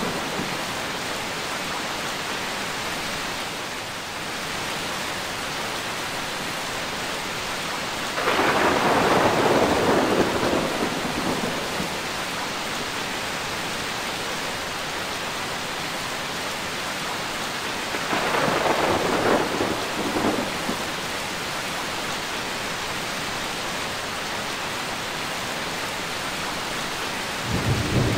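Steady heavy rain with rolls of thunder. The thunder swells up twice, about a third of the way in and again past the middle, each roll lasting a few seconds, and a third begins right at the end.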